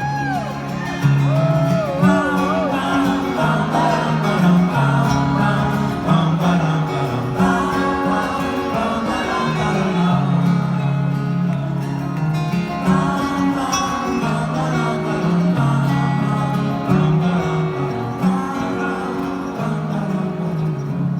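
Live band music with no lyrics: the instruments play on over a moving bass line.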